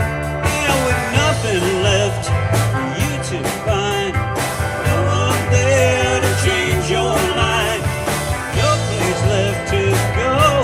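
Live rock band playing: a pulsing electric bass line and drum kit under guitars and keyboards, with a lead melody that bends and wavers in pitch.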